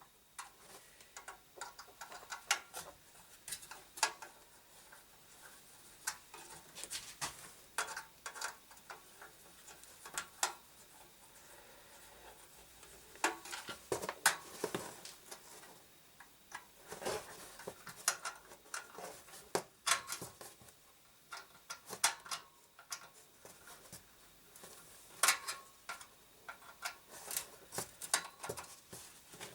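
Irregular clicks, taps and clatter of metal and plastic parts being handled while a desktop PC is taken apart, here with its power supply being removed.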